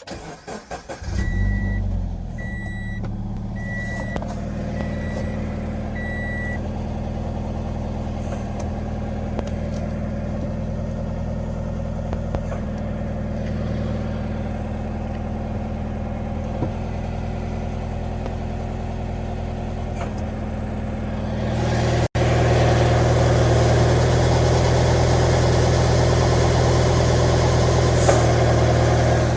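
Subaru BRZ flat-four engine starting and idling, with a warning chime beeping five times in the first few seconds. About twenty seconds in, a louder rasping buzz joins the idle and keeps on. This is the noise that appears only with the clutch pedal down, which the owner likens to a starter trying to turn on a dead battery, but quieter.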